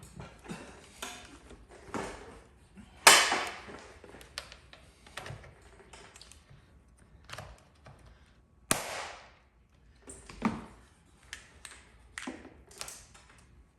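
Irregular sharp snaps, knocks and small taps from paintless dent repair tools working on a car panel during glue-pull repair. Two much louder snaps stand out, about three seconds in and near nine seconds.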